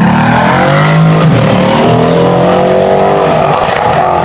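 Car engines revving and accelerating, their pitch rising and falling.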